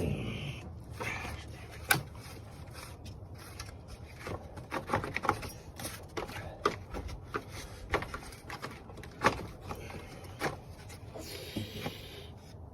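Hand tools and metal parts clicking, knocking and scraping irregularly while bolts and parts of a radiator fan assembly are being worked on, with two sharper knocks about two seconds in and near nine seconds in.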